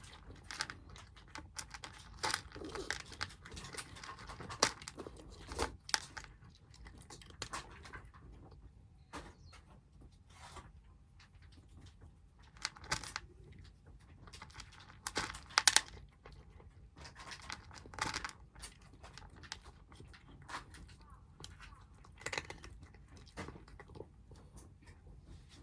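Kittens eating: irregular small crunches and clicks, with a louder clatter about 15 to 16 seconds in.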